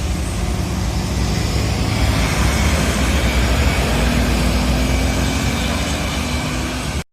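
Heavy road traffic: bus and vehicle engines running close by over a steady road hiss. The sound cuts off abruptly near the end.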